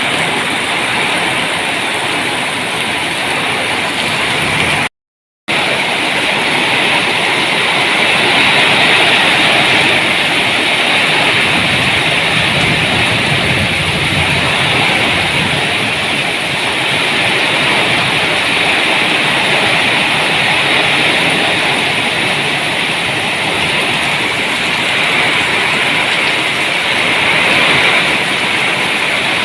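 Heavy rain falling in a steady, dense hiss, broken by a brief total cut-out about five seconds in.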